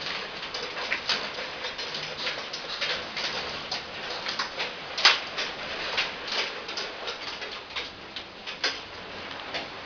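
Rainwater dripping and splashing inside a house in quick, irregular drops over a steady hiss of water, with one louder splash about five seconds in.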